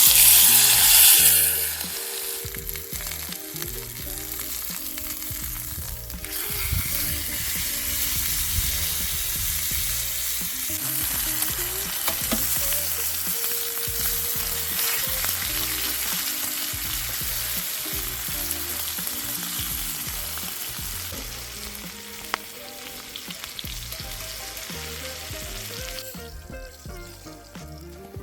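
Food frying in a hot pan, a steady sizzle. It flares loudly at the start as the food goes in and dies away near the end.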